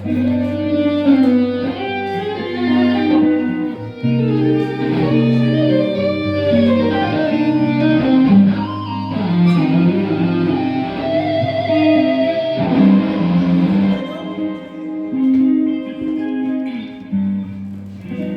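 Electric guitar playing melodic lines over a backing track, with held bass notes that change every couple of seconds.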